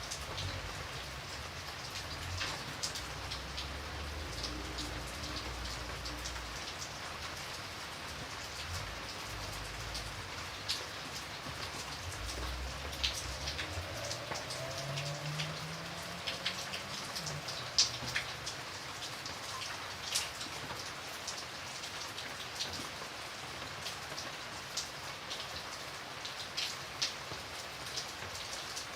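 Steady rain falling, with individual drops ticking sharply at irregular moments over the constant patter.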